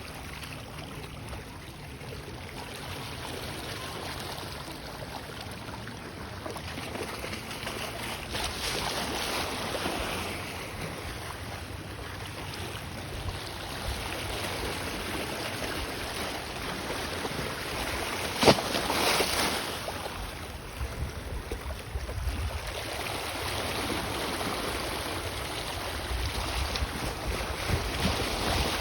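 Small ocean waves washing over a lava-rock shoreline, the wash swelling and falling back a few times, with wind buffeting the microphone. A single sharp knock comes about two-thirds of the way through.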